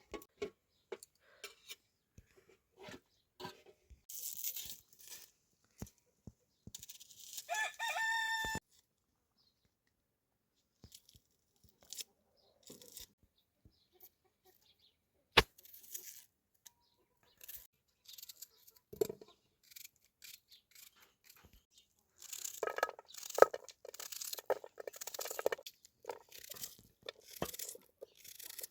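A rooster crows once, briefly, about a quarter of the way in. Around it are scattered clicks, knocks and rustling, with one sharp knock about halfway and a denser stretch of rustling and crunching near the end.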